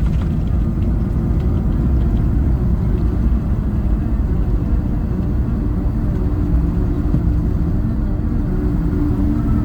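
Airbus A220-300 cabin noise: a steady low rumble of the aircraft's engines and airframe heard from inside the cabin, with a faint steady hum over it.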